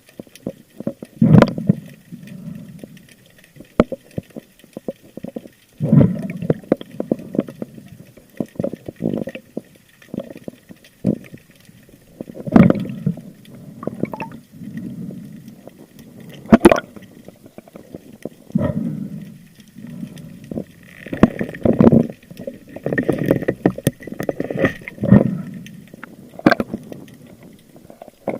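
Sea water sloshing and gurgling around an underwater camera, with swells every few seconds and scattered sharp clicks and knocks.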